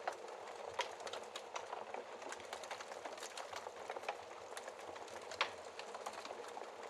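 Wood fire crackling in a fireplace: a steady soft hiss with frequent irregular sharp pops and snaps, one louder pop about five seconds in.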